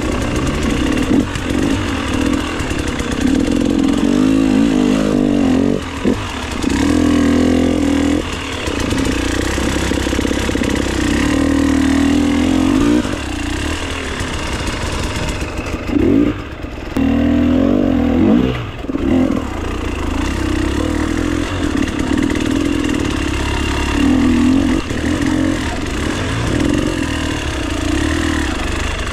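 KTM enduro motorcycle engine under constantly changing throttle, revving up and dropping back as it picks its way over slippery rock, with brief throttle-offs about six, sixteen and nineteen seconds in.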